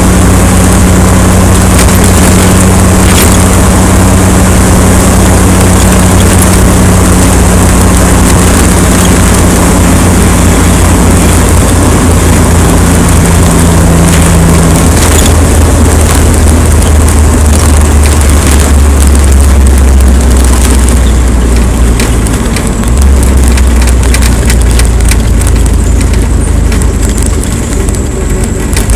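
Loud, continuous wind noise battering the microphone, with a steady low drone underneath that shifts pitch a few times.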